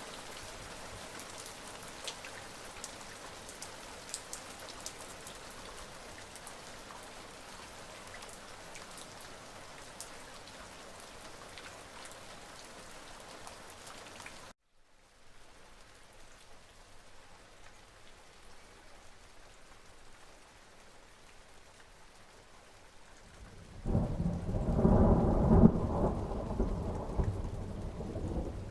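Steady rain falling, with fine drop ticks. It cuts off abruptly about halfway through and comes back softer. Near the end, a loud low roll of thunder rumbles for several seconds.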